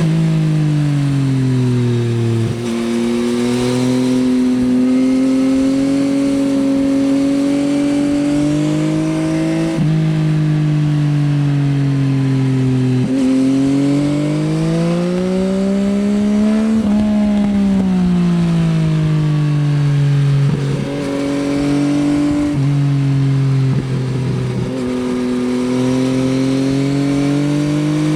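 Yamaha XSR900's three-cylinder CP3 engine through an Akrapovič Racing Line exhaust, heard while riding: it runs at moderate revs, its pitch dropping off, holding steady and climbing again several times with throttle changes and short breaks at the gear changes.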